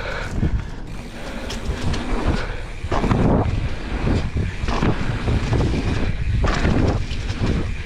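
Wind rushing over the microphone, with tyre noise from a mountain bike ridden fast down a dirt jump trail; the rush swells several times as speed builds.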